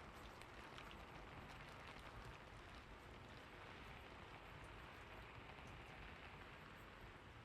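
Faint steady rain: a soft, even hiss with scattered light drop ticks.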